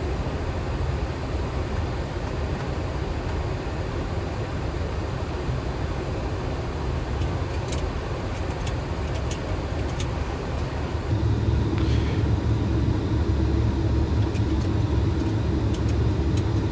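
Boeing 737 flight-deck noise in descent: a steady rush of airflow and engine hum. About eleven seconds in it gets louder and deeper, with a steady low hum added, and a few faint clicks are heard.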